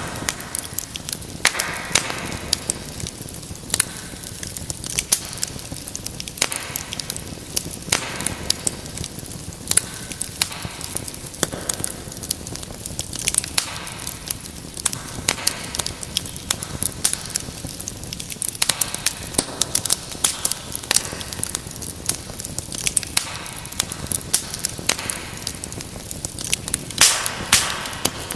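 Wood fire crackling in a fireplace: irregular sharp pops and snaps over a steady soft hiss of burning.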